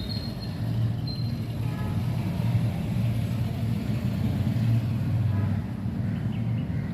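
Cat purring, a steady low rumble that swells and eases with each breath.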